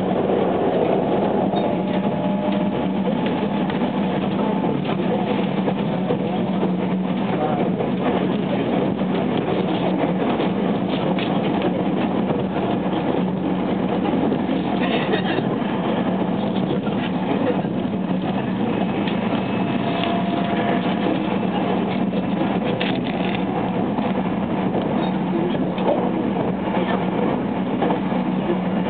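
Running noise of a JR West 287 series electric multiple unit at speed, heard inside the passenger car: a steady rumble of wheels on rail with an even hum under it and occasional clicks.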